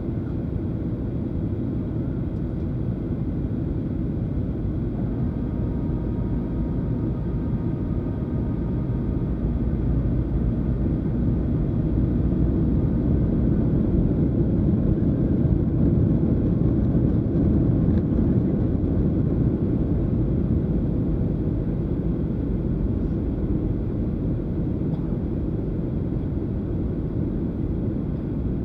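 Steady rumble of a Boeing 737-800 in flight, heard inside the cabin: the jet engines and the airflow make a low, even noise. It grows louder in the middle and then eases off a little.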